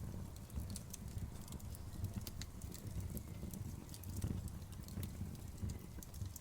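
Outdoor wood bonfire crackling, with scattered sharp pops and snaps over a low, steady rumble.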